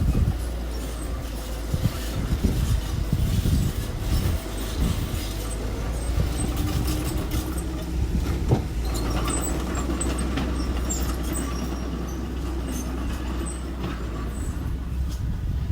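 Engine of small earthmoving machinery running steadily, with a series of knocks and clanks in the first few seconds and one more sharp knock about halfway through.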